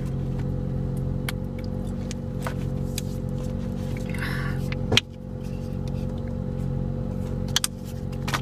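Car engine idling, a steady low hum, with scattered small clicks, a short hiss about four seconds in and a sharp click about five seconds in.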